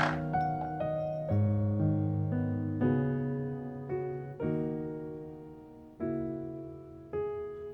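Background music: slow solo piano, soft chords struck about once a second, each note fading away.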